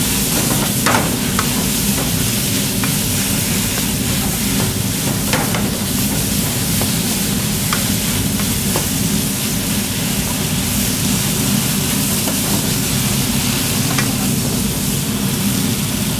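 Dak-galbi (spicy stir-fried chicken) sizzling in a hot pan while it is stirred, with a spatula scraping and clicking against the pan a few times, over a steady low hum.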